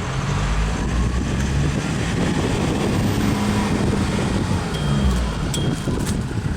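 A vehicle engine running steadily, its pitch rising and falling a little. A few sharp clicks come near the end.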